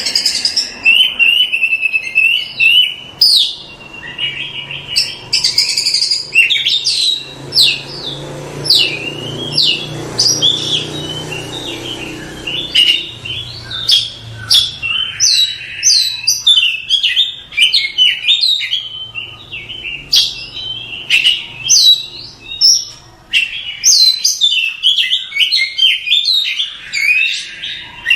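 Oriental magpie-robin (kacer) singing without pause: a dense, rapid stream of varied whistles, chirps and sharp notes.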